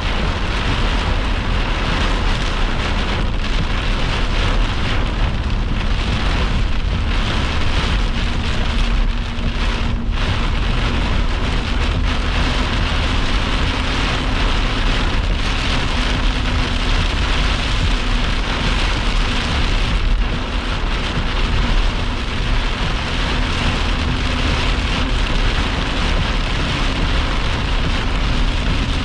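Heavy wind-driven rain pelting a vehicle during a severe thunderstorm, a dense, steady downpour, with a faint steady hum from about eight seconds in.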